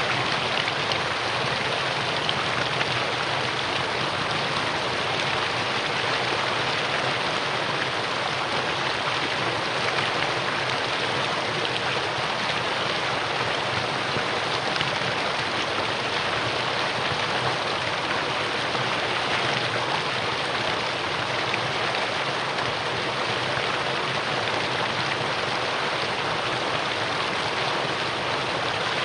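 Mountain valley stream rushing steadily over rocks, an even unbroken rush of water.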